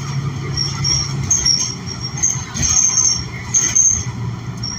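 Cabin sound of a New Flyer XN40 city bus, its Cummins Westport L9N natural-gas engine running with a steady low drone, and a couple of short knocks from the body about two and a half and three and a half seconds in.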